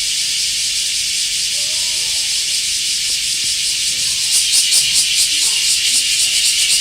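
Cicada singing loudly: a steady high-pitched buzzing hiss that turns into a rapid pulsing of about four beats a second from a little past the middle.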